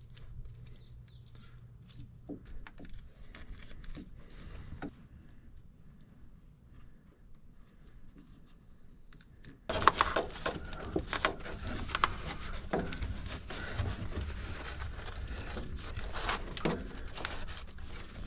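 Hands handling heat sheathing on a fuel line and wire: scattered faint clicks and rustles, then, from about ten seconds in, a sudden busier stretch of crinkling, scraping and sharp knocks.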